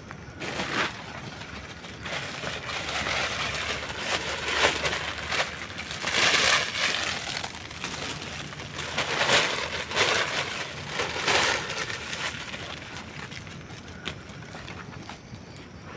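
Wood campfire crackling and popping, with a steady bed of small snaps that swells several times into louder, denser bursts of crackling.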